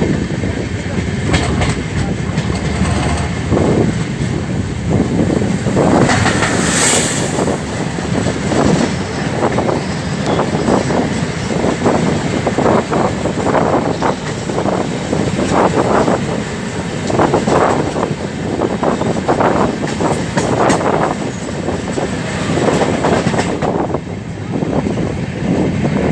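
Passenger express train running along the track, its wheels clattering over the rail joints in a steady repeating rhythm over a continuous rumble. About 6 seconds in there is a brief high hissing or screeching burst.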